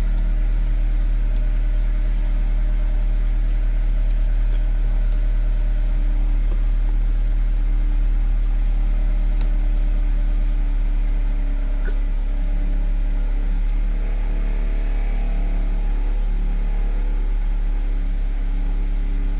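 Honda Accord's engine idling steadily, a constant low hum.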